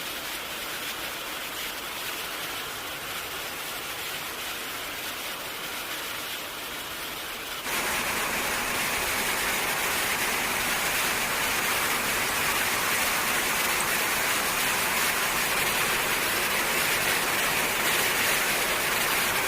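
Heavy rain falling, a steady hiss that turns abruptly louder about eight seconds in.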